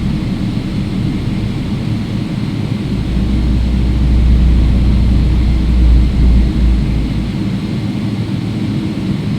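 Cabin noise of a Boeing 777-300ER moving on the ground: a steady rumble, with a deeper low rumble that swells from about three seconds in and eases off near seven seconds.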